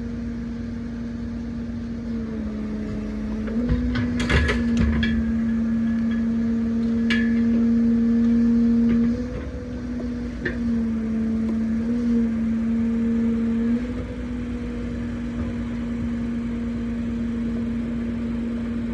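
Truck-mounted loader crane's hydraulic drive humming steadily, its pitch stepping up and down as the crane is worked, with a few sharp metal clanks from the pallet fork about four seconds in and again near seven seconds.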